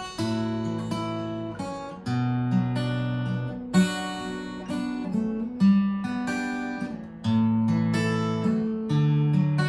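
Acoustic guitar strumming chords, a new chord struck about every one and a half to two seconds, with no voice: an instrumental break between sung verses of a song.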